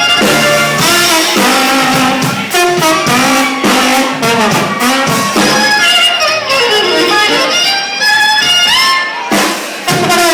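Jazz played on brass and saxophone over a drum kit, with sliding horn lines and a steady beat.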